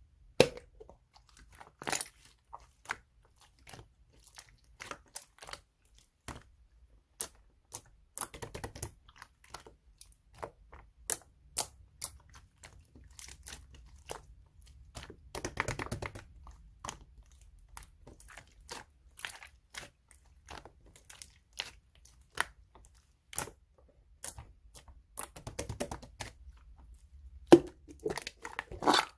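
Chewy slime being pressed, stretched and folded by hand, giving irregular sticky clicks, pops and crackles, with denser bursts around 2, 8 and 16 seconds in and a louder cluster near the end.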